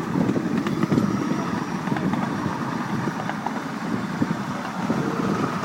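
Ride-on miniature railway train running along the track, its wheels and cars giving a steady rattling clatter.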